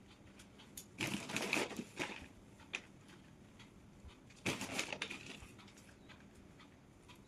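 Two bursts of crunching and rustling handling noise, the first about a second in and the second about four and a half seconds in, with scattered small clicks: soil being worked by hand during planting.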